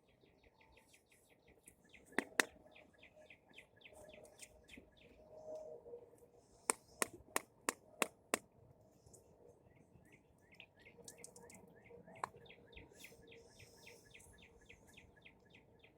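Faint bird chirping in two long runs of rapid, evenly spaced chirps, about six or seven a second. Between the runs come sharp clicks: a pair near the start and five in quick succession in the middle.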